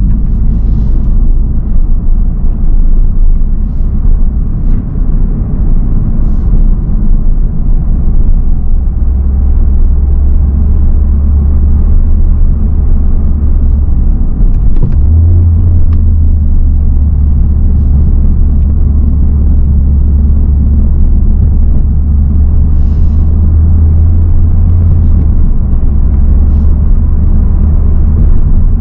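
Honda Civic Type R FL5's turbocharged 2.0-litre four-cylinder (K20C) running under way, with road noise, heard inside the cabin as a loud, deep, steady drone. Its pitch steps up about halfway through and drops back down a few seconds before the end.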